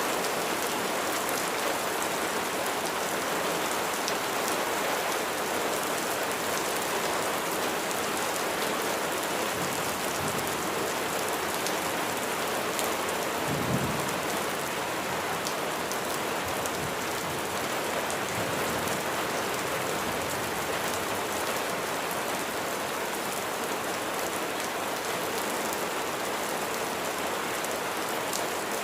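Steady heavy rain falling, a dense even hiss with many individual drops ticking. A brief low thump about halfway through.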